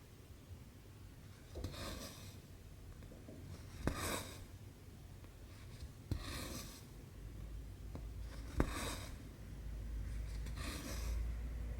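Cotton thread being pulled through cross-stitch fabric. Each stitch starts with a sharp tick as the needle goes through, then a short scratchy rasp as the thread is drawn after it. This repeats five times, about every two seconds.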